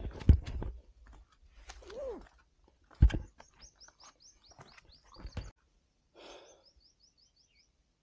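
A bird calling two quick runs of short, high notes, several a second, the first about three seconds in and the second near the end. Under it, heavy thuds of footsteps on rock, the loudest about a third of a second and three seconds in.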